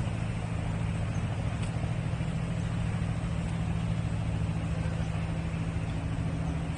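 Steady low hum of a distant engine with background traffic noise, unchanging throughout.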